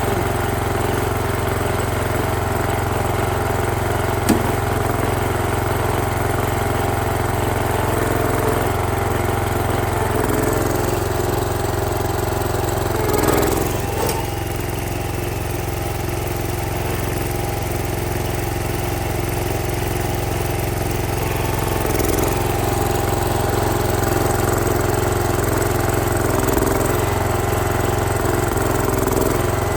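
Ford LGT165 garden tractor engine running steadily, back to running after its ignition points were filed and gapped. About 13 seconds in the sound briefly swells and then settles a little quieter, picking up slightly again later.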